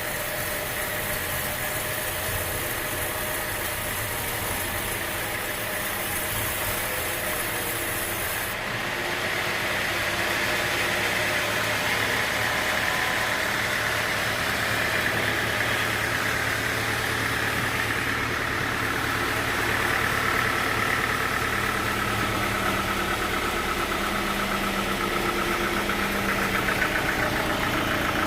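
An engine running steadily under light load, with an abrupt change in the sound about eight seconds in, after which it is a little louder.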